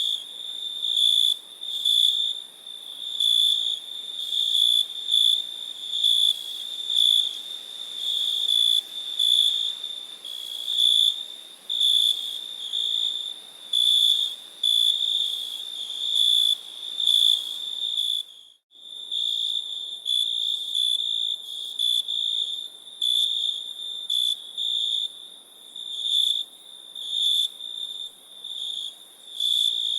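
Crickets chirping: a steady high-pitched trill with louder chirps about once a second, broken by a brief gap about two-thirds of the way through.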